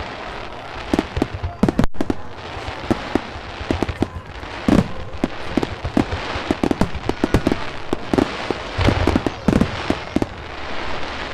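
Fireworks display: a rapid run of sharp bangs and crackle, with deeper booms of shells bursting about halfway through and again near the end.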